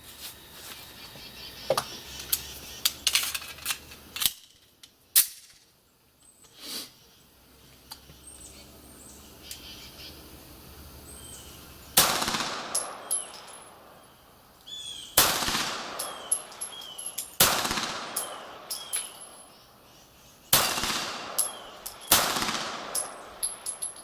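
9 mm Beretta 92G Elite Compact pistol fired in a slow string: five loud shots spaced about one and a half to three seconds apart in the second half, each with a long echoing tail. Before them come a few seconds of quieter sharp clicks and knocks, then a quiet stretch.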